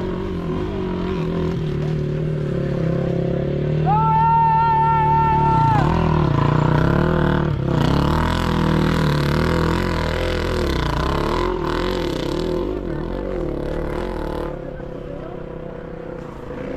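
Motocross sidecar motorcycles' engines revving hard, their pitch rising and falling with the throttle. About four seconds in, a wavering high tone sounds over them for about two seconds.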